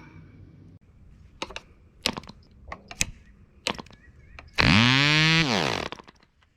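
A few sharp clicks, then the Webra 1.5 cc model-airplane diesel engine fires briefly: its pitch shoots up, holds for about a second, then falls away as it dies. This is a starting attempt that does not keep running.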